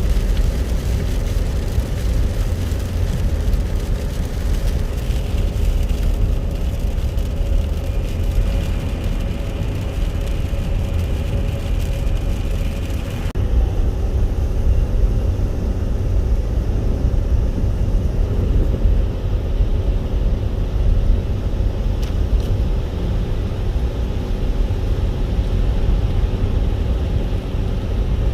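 Car driving on the road: a steady low road and engine rumble, with the higher hiss dropping away about 13 seconds in.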